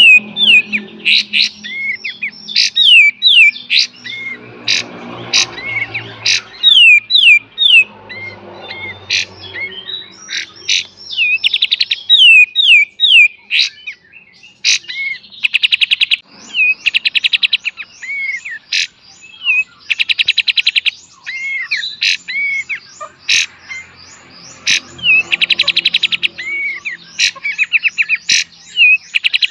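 Kapas tembak songbird singing loudly and continuously: quick, sharp, down-hooked whistled notes and clicks, broken several times in the second half by fast buzzing rattles, the 'beset' call.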